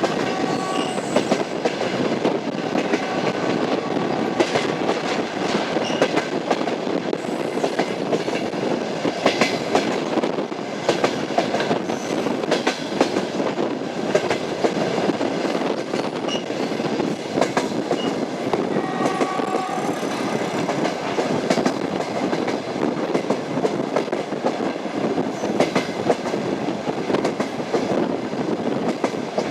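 Moving train: wheels clattering steadily over the rails amid a continuous rumble, with brief high tones about a second in and again near twenty seconds.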